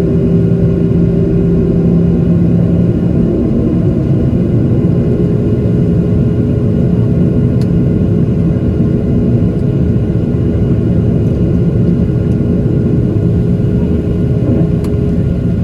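Steady cabin rumble inside a Boeing 737-700 with its engines running on the ground, carrying a low hum that fades about three seconds in and returns near the end.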